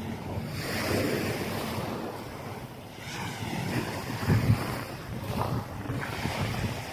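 Small waves washing onto a sandy beach in swells, with wind buffeting the microphone; a strong gust about four seconds in.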